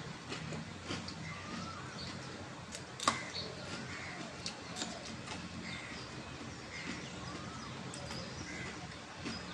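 Mouth sounds of chewing a mouthful of pani puri, with scattered crunching clicks and one sharper crunch about three seconds in. Birds chirp and call in the background over a low steady hum.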